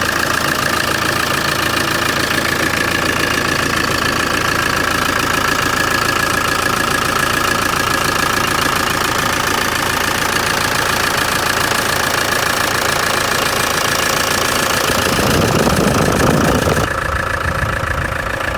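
Land Rover 300Tdi 2.5-litre four-cylinder turbodiesel engine, brand new, running steadily at idle. About fifteen seconds in a louder low rumble swells for a second or two, after which the sound turns duller and a little quieter.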